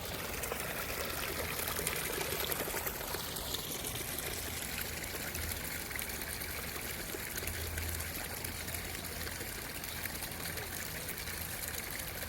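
Pumped stormwater trickling steadily out of a pop-up drain emitter and running downhill, driven by a sump pump in a French drain system.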